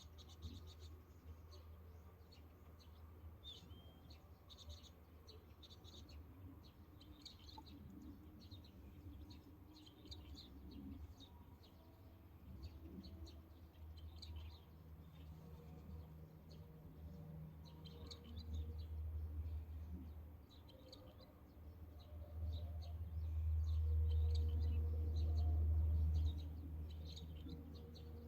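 Small birds chirping repeatedly in short high calls, over a low rumble that swells loudest for a few seconds near the end.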